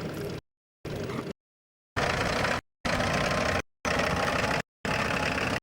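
Tractor engine running in a ploughing field. The sound cuts out completely several times, in dropouts a fraction of a second long between stretches of engine noise, and the engine is louder from about two seconds in.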